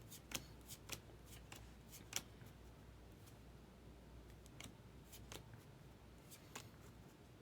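Near silence, broken by faint scattered clicks and light rustles of baseball cards being handled and flipped through.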